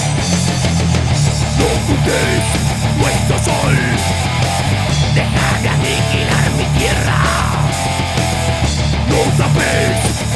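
Heavy metal song: distorted electric guitars playing over a dense, steady low end, with melodic lines sliding in pitch above it.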